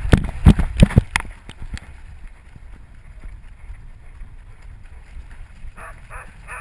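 Rapid thumps of a dog's running strides jolting the action camera strapped to it, stopping about a second in. Then a low steady rumble of wind on the microphone, with a few faint short sounds near the end.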